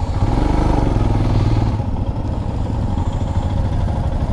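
Motorcycle engine running while riding, rising briefly in pitch early on and a little louder for the first two seconds, then running steadily.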